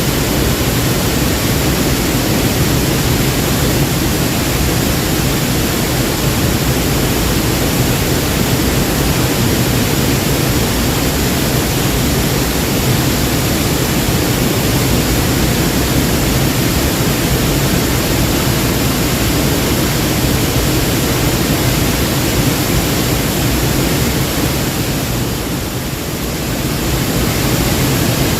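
Waterfall: a loud, steady rush of falling water, easing slightly for a moment near the end.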